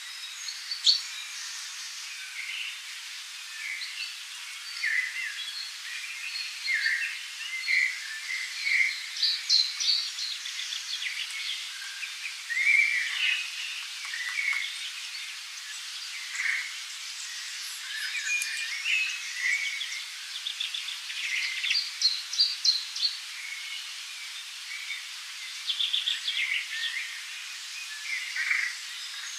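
Several songbirds chirping and singing in short, overlapping calls throughout, over a steady rushing hiss of flowing river water.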